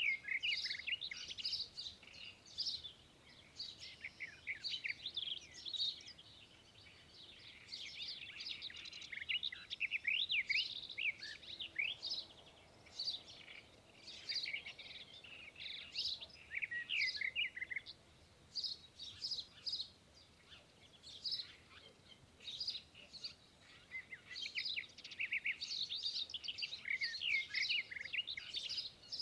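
Small birds chirping and twittering, many quick high-pitched calls overlapping in busy bursts with quieter stretches between.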